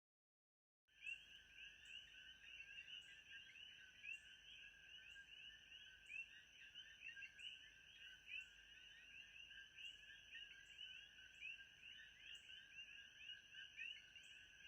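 Faint nature ambience of a dense chorus of chirping frogs, fading in about a second in. Over it runs a steady high trill that pulses a little more than once a second.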